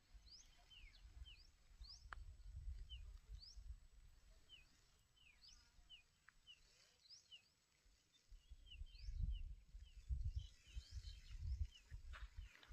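Small birds chirping faintly, many short quick calls repeated throughout, over an uneven low rumble that grows stronger in the second half.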